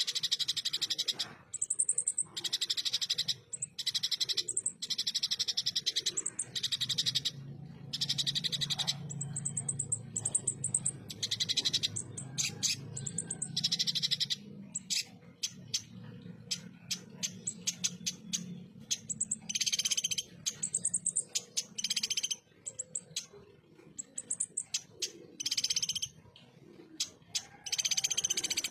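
Konin (kolibri ninja, a brown-throated sunbird) singing its harsh 'tembakan' song: repeated bursts of very fast, sharp high notes about a second long, with short pauses between them and a run of quick separate ticks in the middle.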